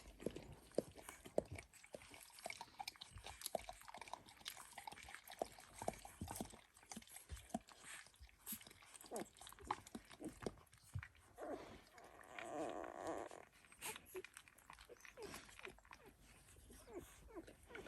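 Faint, irregular wet clicking and smacking from 8-day-old Dalmatian puppies and their dam, with one longer, muffled sound lasting about two seconds near the middle.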